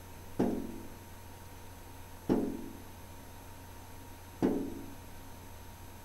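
A bird attacking a window, hitting the glass three times about two seconds apart; each hit is a sharp knock that rings briefly in the pane and frame.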